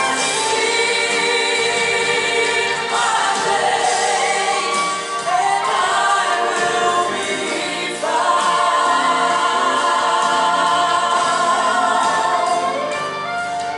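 Congregational worship singing: a group of voices singing a slow gospel song together with instrumental backing, the sung lines held long and gliding between notes, with a short break about five seconds in and a new phrase starting near the middle.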